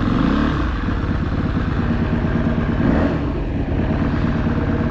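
Aprilia SXV 550 V-twin engine coming off the throttle, its pitch falling at the start, then running at a low steady speed with a brief blip about three seconds in.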